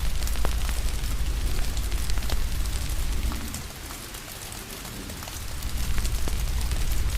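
Steady rain hiss with a wood fire crackling, sharp pops scattered irregularly through it, over a deep low rumble. The rumble and overall loudness dip for about two seconds in the middle, then come back.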